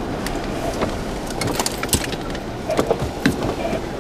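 Steady rushing wind and vehicle noise, broken by scattered sharp clicks and knocks, several close together about three seconds in.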